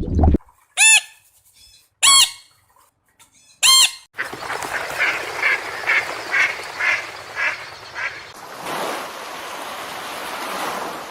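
Bird calls: three short separate calls, each rising then falling in pitch, then a run of quicker repeated calls about twice a second over a steady rushing background.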